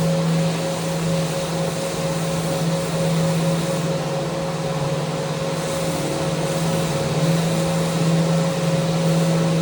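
Electric power sander running steadily: a constant motor hum with a higher whine over a hiss, rising and falling slightly in loudness as it works the handrail.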